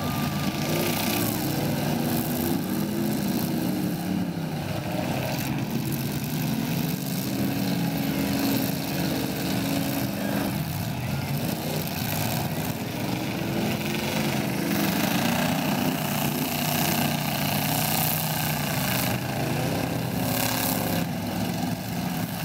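Several demolition derby cars' engines revving, their pitch rising and falling again and again as the cars accelerate and back off, with a few knocks from the cars colliding.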